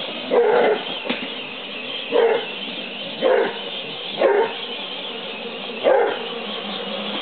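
A hound dog barking five times, each a short bark a second or two apart, over a steady background noise.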